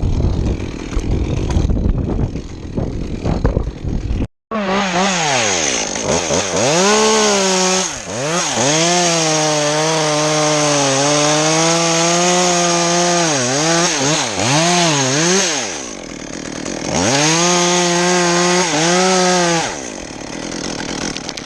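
Two-stroke chainsaw running at high revs while cutting wood, its pitch dipping and recovering again and again as the chain is loaded in the cut. It drops out briefly, revs up for a second cut and then fades. Before it, after a few seconds of low rumbling noise, the sound cuts off abruptly.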